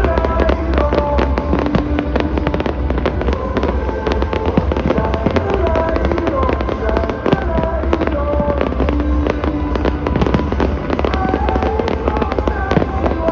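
Fireworks display: many sharp bangs and crackles from bursting shells, coming thick and fast, over loud melodic music from the show's soundtrack.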